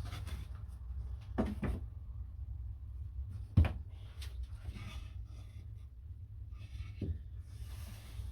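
Scattered knocks and clicks of handling work, the loudest about three and a half seconds in, over a steady low hum.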